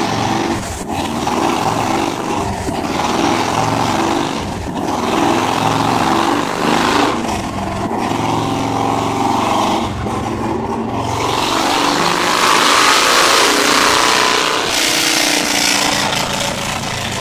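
Harley-Davidson Fat Boy V-twin engine running under load on a chassis dynamometer, the revs rising and falling several times and loudest about twelve to fourteen seconds in.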